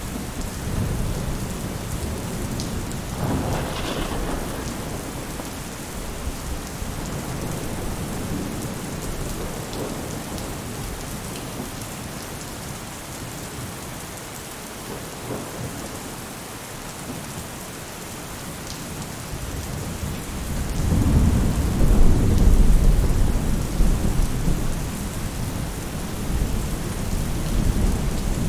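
Steady rain falling on a roof, with rolls of thunder: a short rumble a few seconds in and a longer, louder one starting about two-thirds of the way through.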